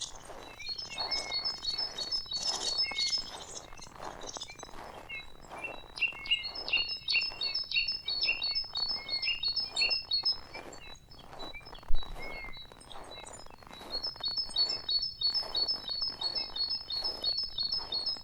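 Small songbirds singing, one repeating a quick series of high notes, about three or four a second, in two long runs. Under them comes a soft, uneven crunch of footsteps in snow, with a single sharp knock about two-thirds of the way through.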